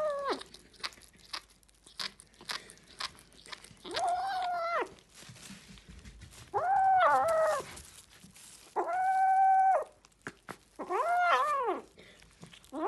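Kitten meowing over and over: about five drawn-out calls of roughly a second each, with short clicks between them.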